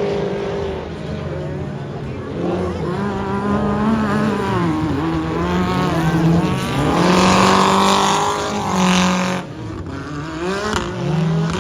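Off-road racing buggy engines revving up and down as they race around the track. There is a louder, rougher stretch of full-throttle engine noise from about seven to nine seconds in.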